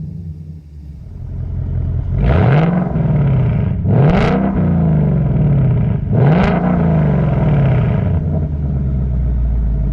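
2019 Ford Mustang GT's 5.0 V8 with a Pypes H-pipe and active exhaust in track mode, heard from inside the cabin: idling, then blipped three times, each rev rising quickly and falling back to idle.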